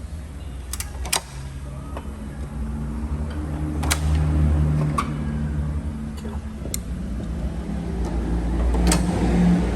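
A nearby engine runs steadily and swells louder twice. Several sharp metallic clinks, like tools or parts being handled, cut in over it.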